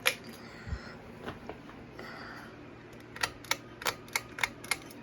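Sharp clicks from a ceiling fan's pull-chain switches being worked: one click at the start, then a quick run of six or seven clicks about three a second in the second half, as the light is switched and the fan is set to low speed.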